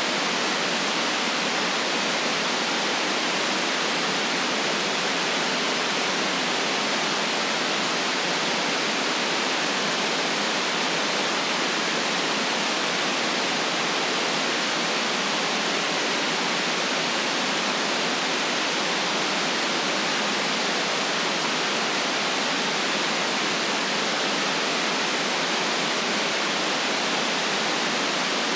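Steady synthetic white noise, an even hiss cut off below about 150 Hz and above about 8 kHz, unchanging throughout.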